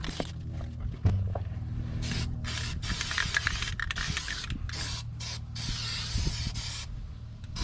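Aerosol spray can of Rust-Oleum paint being sprayed in several hissing bursts, the longest about two seconds, with short pauses between them.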